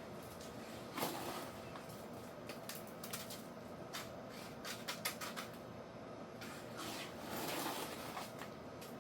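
Irregular scrapes and knocks of hand tools and a bucket being worked through freshly mixed concrete.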